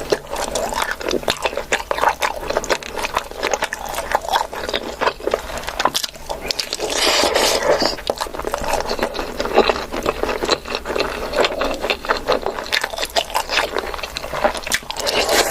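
Close-miked eating sounds: chewing with frequent small clicks and smacks, and a louder noisy stretch about halfway through.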